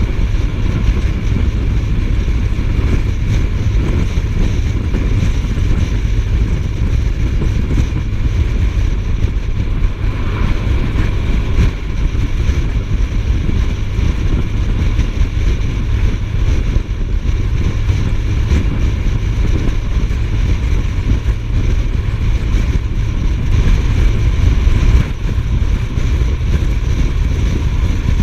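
Steady wind rush over the microphone with the drone of a Suzuki GSF1250S Bandit's inline-four engine as the motorcycle is ridden at road speed.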